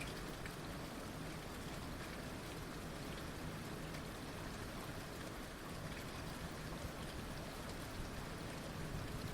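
Heavy rain falling steadily, an even hiss of rain on surfaces with scattered individual drops.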